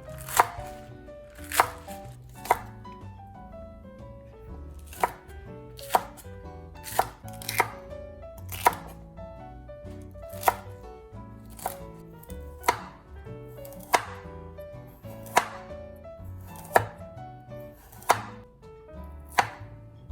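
Kitchen knife chopping vegetables on a cutting board in single, separate cuts about once a second, over soft background music.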